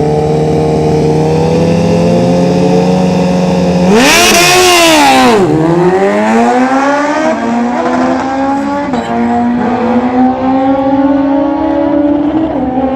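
Drag-racing motorcycle engines at full throttle. A steady, slowly climbing engine note is overtaken about four seconds in by a much louder bike flashing past, its pitch rising and then dropping sharply, before an engine note climbs again.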